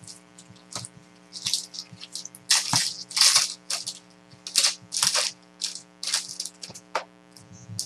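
Trading card packs and cards being handled, with irregular short crinkling and rustling of pack wrappers and card stock, several times over a faint steady electrical hum.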